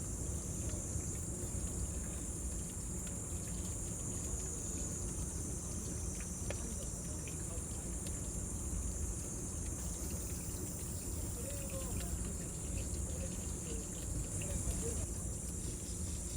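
Cicadas droning in a steady high-pitched chorus over a bonfire burning with a low rumble and scattered small crackles.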